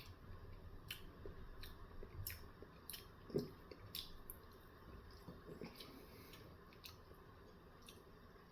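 Faint close-up chewing of a McDonald's breakfast bagel sandwich: small mouth clicks and smacks, busiest in the first four seconds and thinning out after.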